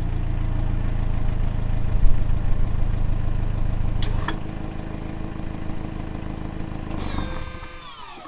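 BMW M235i's turbocharged four-cylinder engine idling steadily after a rev, the idle note stepping down with a click about four seconds in. Near the end the engine is switched off, with a falling whine as it winds down.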